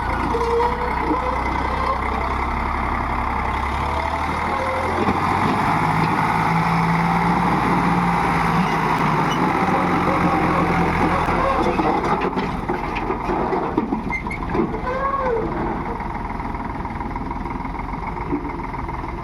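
Diesel tractor engine running, its note changing about five seconds in and again about eleven seconds in.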